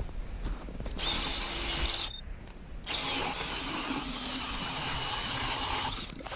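Hand ice auger boring into river ice with a steady scraping grind, in two spells with a short pause about two seconds in, as a test hole to check whether the ice is thick enough.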